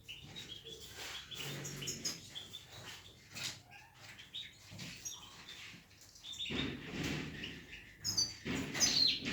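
European goldfinches chirping and twittering in quick, excited bursts of short high notes, with two louder rustles about two-thirds of the way in and near the end.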